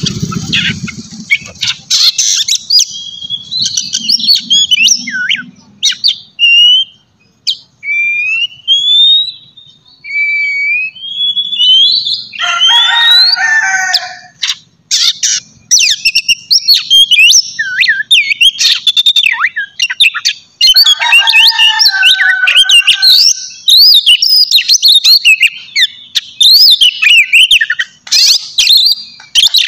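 Oriental magpie-robin (kacer) singing loudly, a long varied run of whistled glides and quick chirps packed with mimicked phrases. Twice there is a harsher, grating phrase pitched lower than the rest.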